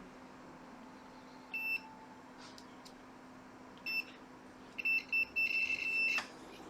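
Digital multimeter continuity beeper giving short high beeps as the probes test a laptop motherboard for a short: one about a second and a half in, another at about four seconds, then a quick run of beeps ending in a longer one of about a second, over a faint steady hum.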